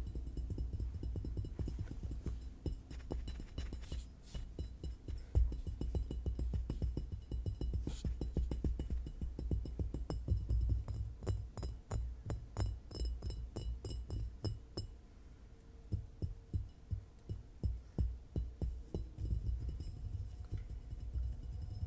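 Fast fingertip and nail tapping on an object: a rapid stream of soft low taps with some sharper clicks. About two-thirds of the way through it eases into separate, evenly spaced taps.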